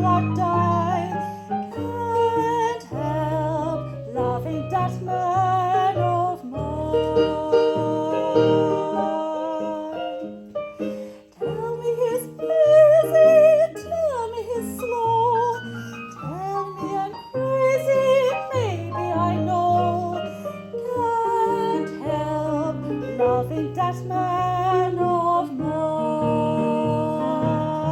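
A woman singing a slow ballad with wide vibrato on held notes, over instrumental accompaniment with sustained low chords.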